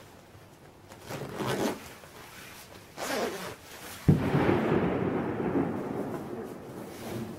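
Two short rushing swells, then a sudden loud boom about four seconds in that rumbles and fades away over about three seconds.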